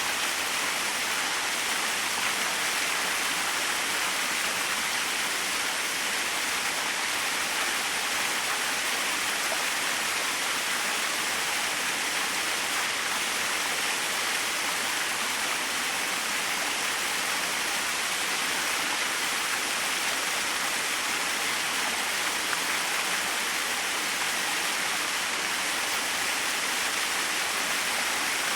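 Small waterfall: a steady, unchanging rush of falling and splashing water, mostly hiss with little deep rumble.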